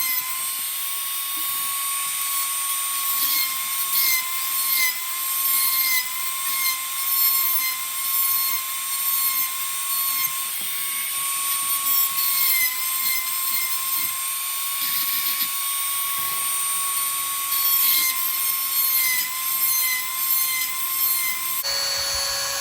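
Electric chainsaw sharpener's grinding wheel running with a steady high whine over a grinding hiss, the pitch dipping briefly again and again as the wheel is brought down onto the chain's cutters. Near the end the whine cuts off.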